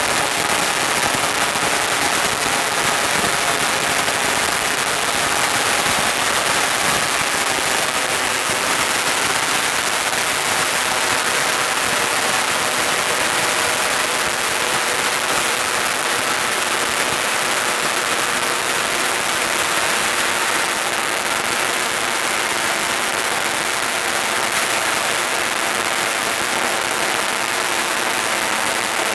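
Firecrackers going off in a dense, unbroken crackle, as from a long string burning through.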